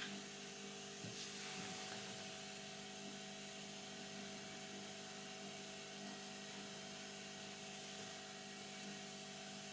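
Steady mechanical hum with a faint high whine, like a small fan or motor running at the bench, with one faint tick about a second in.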